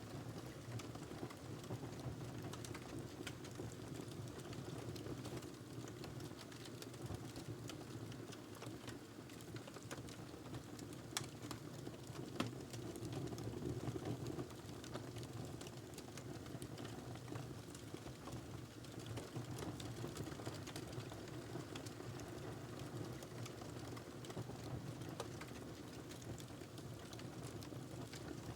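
Fire in a fireplace crackling steadily under a low rushing hiss, with frequent small pops and a few sharper snaps about halfway through.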